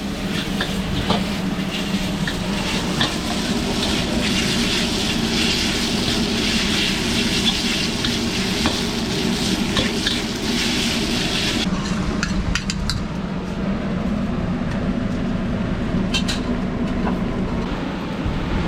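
Food stir-frying in a wok: loud sizzling with ladle scrapes and clicks. The sizzle cuts off sharply about two-thirds of the way through, leaving a steady low hum and a few metal clinks.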